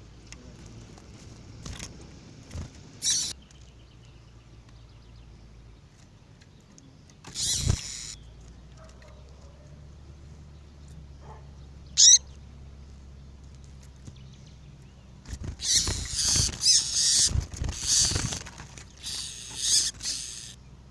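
Double-collared seedeaters (coleiros) calling: a few short, sharp chirps spaced several seconds apart, then a run of rapid twittering song from about 15 seconds in, over a low steady hum.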